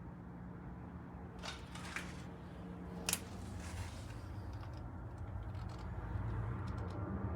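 A steady low hum with a few light clicks and knocks about one and a half, two and three seconds in.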